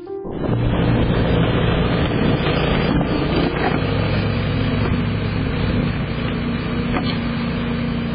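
A motor vehicle running, with a steady low engine hum under loud rushing noise, starting abruptly just after the start.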